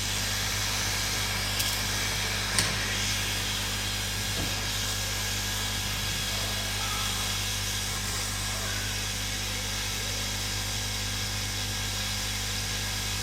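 Hot-air rework station blowing a steady hiss over a steady low hum, with two small sharp clicks in the first few seconds.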